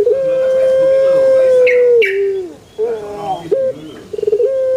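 Puter pelung dove (Barbary dove, Streptopelia risoria) giving its long call: one long, steady note held for about two seconds that drops in pitch at the end. Short rising notes follow, then a quick stuttering start into another long held note near the end.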